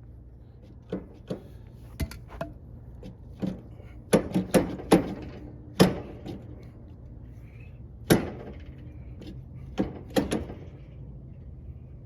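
Irregular sharp metal knocks and clanks, about fourteen, some ringing briefly, from work on a truck's wheel hub and brake drum assembly, over a steady low hum.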